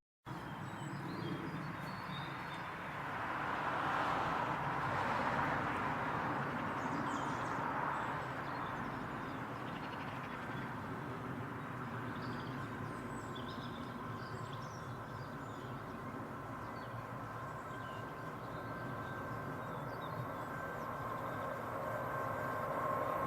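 Train running at a distance, a steady rolling rumble with birds chirping over it. Near the end a set of steady tones swells as the train draws nearer.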